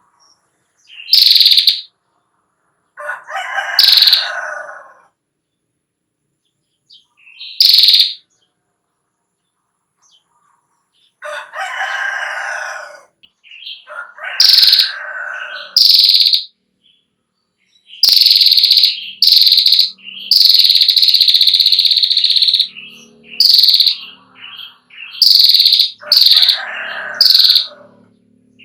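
Female prinia (prenjak klawu) giving its rapid rattling 'ngetir' trill in repeated high-pitched bursts, mostly short, with one long run of about two seconds after the middle. Lower-pitched calls come in between, several times.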